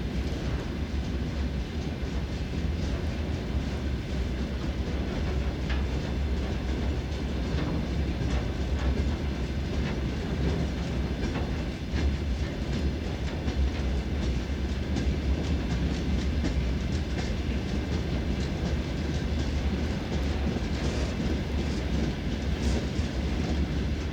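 Freight train wagons rolling past with a steady rumble, their wheels clicking over the rail joints.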